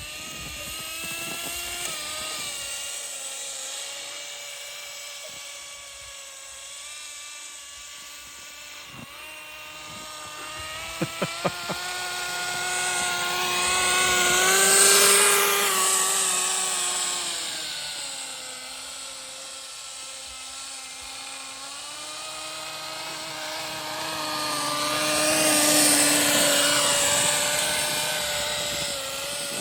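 Small nitro glow engine of a Kyosho Blizzard GP radio-controlled snow vehicle running, its pitch rising and falling with the throttle. It grows loud twice, about halfway and near the end, and drops in pitch as it moves away. There are three quick sharp clicks shortly before the first loud pass.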